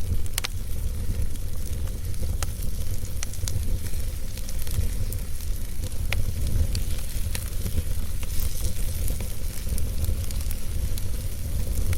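Wood fire burning in a fireplace: steady low rumble of the flames with scattered sharp crackles and pops of burning logs.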